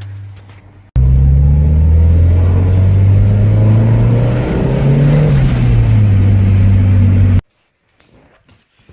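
Toyota MR2's turbocharged engine running loud and being revved, its pitch rising and then easing off, with a brief high whistle sliding down near the peak. The turbo's recirculation pipe is blocked off, so the blow-off air vents straight out. The sound starts abruptly about a second in and cuts off suddenly near the end.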